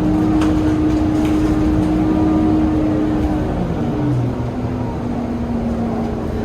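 Scania K230UB city bus running: low engine rumble with a steady drivetrain whine that drops to a lower pitch about four seconds in.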